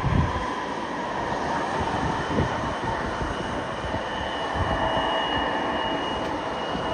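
Jet airliner engines running with a steady high turbine whine over a broad rushing noise, the whine rising slightly toward the end. Wind buffets the microphone briefly near the start.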